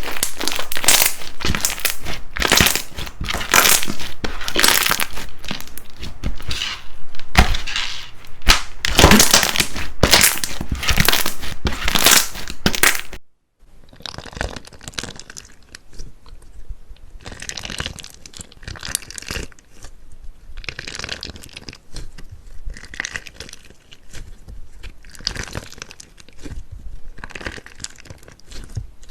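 Crunchy slime being squeezed and pressed by hand, giving dense crackling and crunching. About halfway through a cut leads to a quieter clip of scattered crunches and crinkles.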